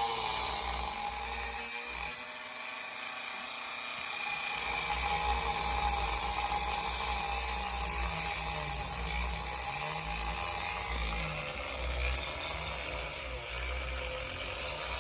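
Dremel rotary tool running at high speed and cutting into a pinewood derby block along a marked line. The whine drops back a little about two seconds in and comes up again from about four seconds as the tool bears into the wood.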